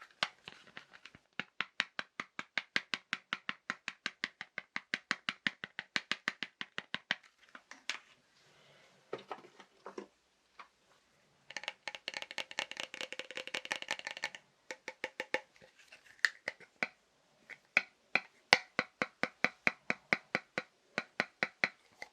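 Fast tapping on assorted household objects, about six quick taps a second in runs with short pauses. Midway through, a couple of seconds of dense rattling and scratching.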